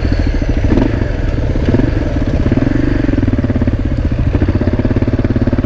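Motorcycle engine running steadily while riding, with an even, rapid exhaust pulse.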